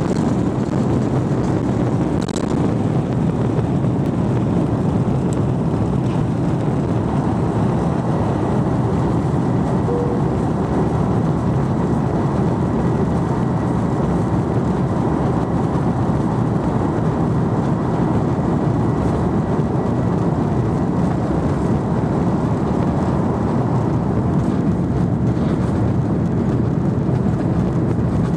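A passenger jet's engines running during takeoff, a loud, steady rushing noise with no clear rise or fall.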